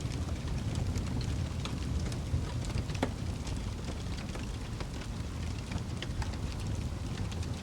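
Wood fire burning in a fireplace: a steady low rumble of flame with scattered small crackles and pops, one sharper pop about three seconds in.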